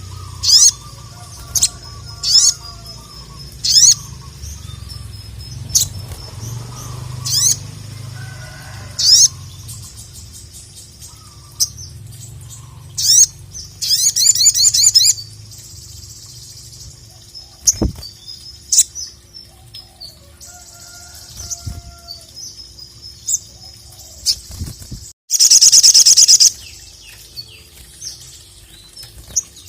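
Sogok ontong (sogon) sunbird singing: a string of short, sharp, high chirps with a rapid trill midway and a louder, longer rapid trill near the end.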